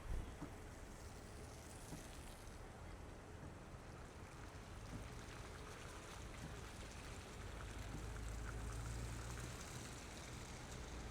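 Car driving on wet, slushy snow-covered streets: a steady hiss of tyres through slush over a low engine and road rumble that swells around eight seconds in. A short thump right at the start.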